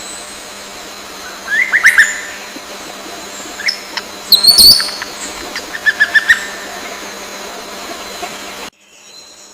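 Bird calls: three quick clusters of sharp chirps about two seconds apart, the middle cluster higher-pitched, over a faint steady hum. The background drops away abruptly near the end.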